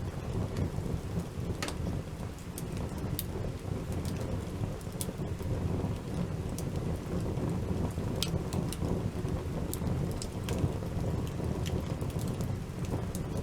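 Wood campfire built in a lean-to lay, burning with scattered sharp crackles and pops over a steady low rumble.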